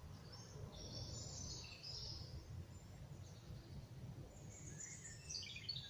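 Songbirds singing in woodland: a short spell of high chirping notes about a second in, and a run of notes stepping down in pitch near the end, over a faint low rumble.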